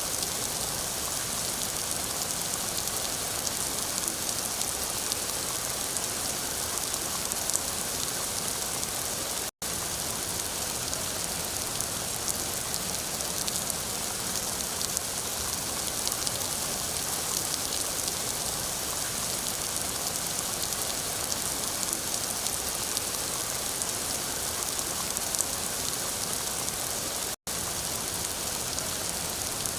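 Steady rain falling, a dense even hiss of drops on a surface. The sound cuts out for an instant twice, about ten seconds in and near the end.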